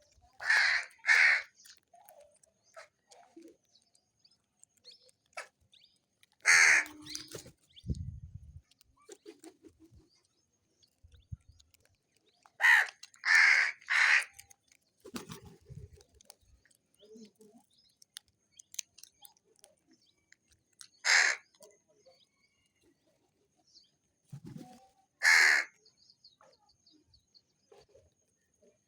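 Crows cawing: loud, harsh calls, singly and in quick runs of two or three, several seconds apart.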